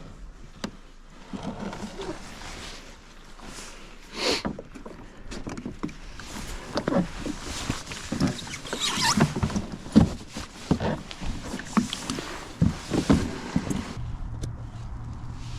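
Irregular knocks, clatter and splashing on and around a fishing kayak, busiest through the middle of the stretch.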